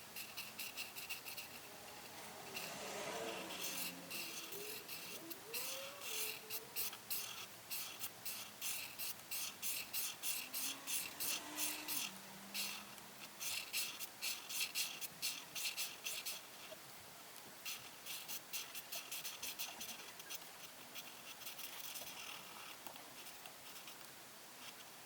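Coloring pen or pencil scratching rapidly back and forth on paper, several strokes a second, busiest in the middle and lighter towards the end.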